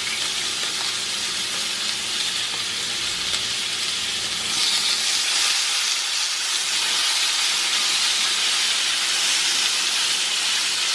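Bacon sizzling as it fries in a pan: a steady hiss that grows a little louder about halfway through.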